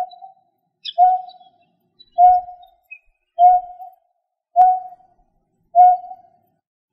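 A bird's short, low, clear call note, repeated evenly about once every second and a quarter, six times, each at the same pitch.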